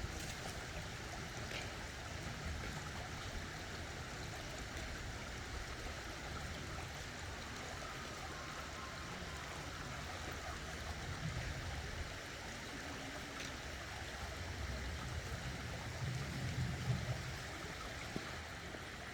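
Stream water flowing steadily, with the low rumble swelling a little twice, in the middle and near the end.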